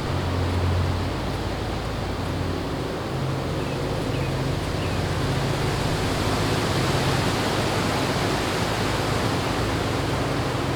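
Wind rushing steadily through forest trees, with a low hum of distant highway traffic underneath. A couple of faint bird chirps come about four seconds in.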